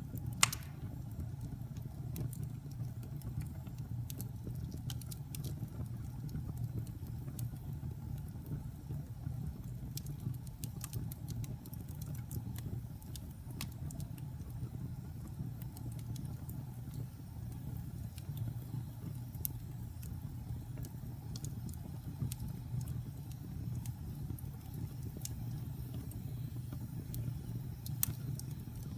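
Wood fire burning in a fireplace: a steady low rumble of flames with scattered crackles and snaps, a sharp pop about half a second in and another near the end.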